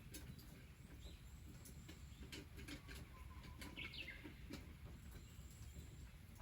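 Faint bird calls over a quiet outdoor background, a few short chirps near the middle, with scattered small clicks.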